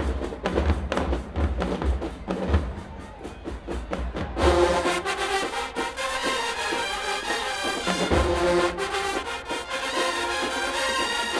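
Marching band: the drumline plays alone at first, then the full band with brass comes in together about four seconds in.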